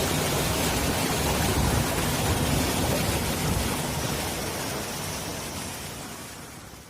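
Waterfall's water rushing, a steady, loud roar of noise that fades out over the last few seconds.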